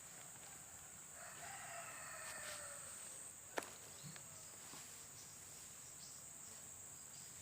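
A rooster crowing faintly, one long crow starting about a second in, over a steady high-pitched insect drone; a single sharp click about three and a half seconds in.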